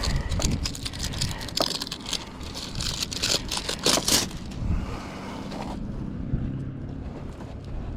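Crinkling and rustling of roll-type ridge vent material being handled and laid out on a metal roof, busy for about four seconds. Then it settles to a faint low steady hum.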